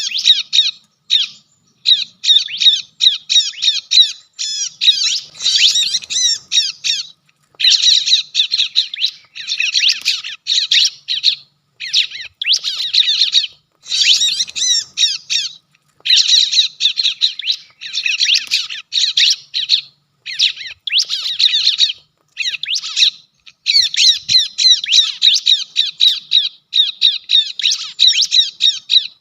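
Bar-winged prinia (ciblek) calls: fast, loud chattering phrases repeated in bursts, with short pauses between them.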